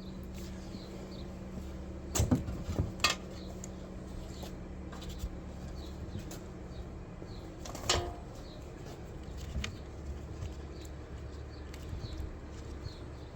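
Metal clinks and knocks of a steel gearbox mounting bracket being offered up and fitted to the engine: a short cluster of clanks about two seconds in and another single clank near eight seconds, over a steady low hum.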